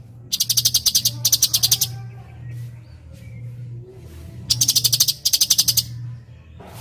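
Cucak cungkok singing in rapid, tight bursts: two pairs of fast, high-pitched chattering trills, one pair near the start and another about two-thirds in. A steady low hum lies underneath.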